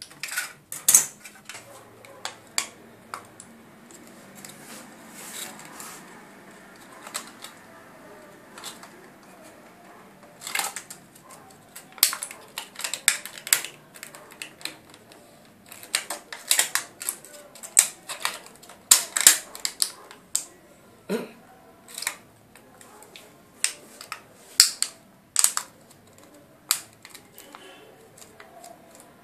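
Irregular sharp clicks and snaps over faint rustling, at no steady pace, from handwork on small materials.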